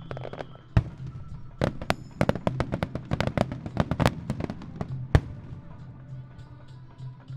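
Aerial firework shells bursting: a sharp bang just under a second in, then a rapid volley of cracking bursts for about two and a half seconds, and another loud bang about five seconds in.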